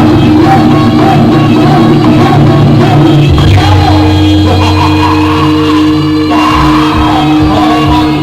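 Loud, amplified Javanese jaranan music played live, with singing and shouted voices over a wavering melody line and a steady held tone.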